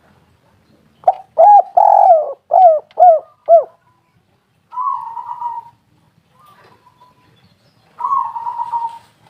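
Spotted dove (tekukur) cooing: a quick run of about six loud, short coos, each dropping in pitch, then softer, burry coos about five seconds in and again near the end.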